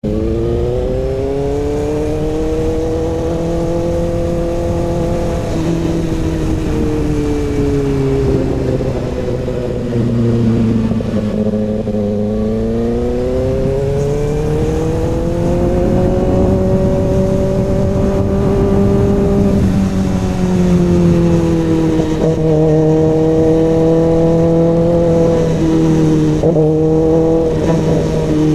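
Kawasaki ZX-6R inline-four engine through an SC-Project CRT exhaust, running under way with its pitch rising and falling smoothly over several seconds at a time, with a few sudden drops in pitch. A steady lower hum runs beneath it.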